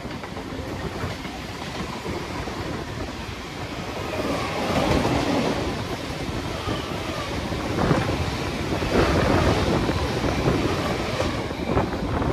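A moving express passenger train heard from inside its coach: a steady running rumble with the wheels clattering over rail joints. It gets louder from about four seconds in.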